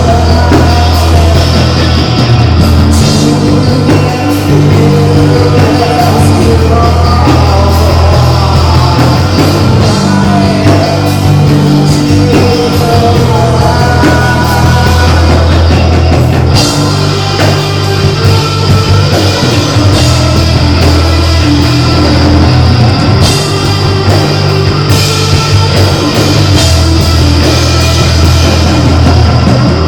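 A rock band playing live, loud and heavy: distorted guitar and a deep bass line that changes note every few seconds over a drum kit.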